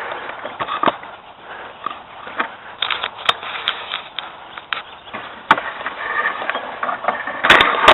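Irregular crunching and rustling of dry leaves and twigs underfoot, with scattered clicks and knocks of the camera being handled and moved, and a burst of louder clicks near the end.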